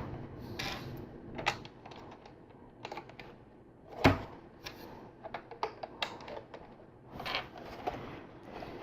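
Small plastic LEGO pieces clicking and tapping as they are handled and pressed together, with a sharper snap about four seconds in.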